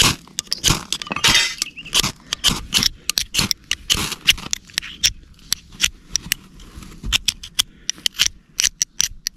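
Fire steel being struck again and again to throw sparks onto moss tinder: quick, sharp metallic scrapes, several a second, irregular, some followed by a short hiss.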